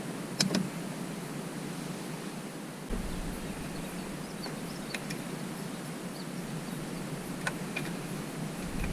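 Steady background hiss with a few faint, sharp clicks and taps from handling the wiring and plug connectors on the gate opener's circuit board; a low rumble comes in about three seconds in.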